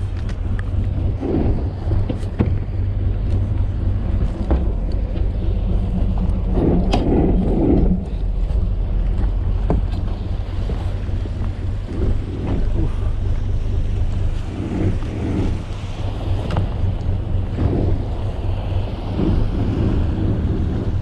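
Ferry boat's engine running steadily while the boat holds its bow against an offshore rock, with gusts of wind on the microphone.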